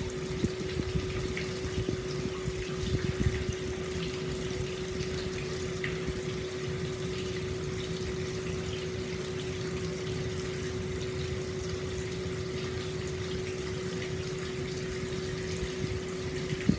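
Hot spring water pouring steadily into an open-air bath: a continuous splashing flow with a steady hum underneath.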